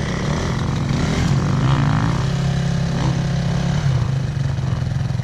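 Small dirt bike engine running steadily, its pitch rising and falling briefly a couple of times.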